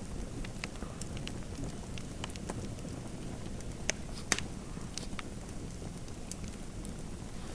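Fireplace fire crackling: a steady low rumble with irregular sharp pops and snaps, two of them louder about halfway through.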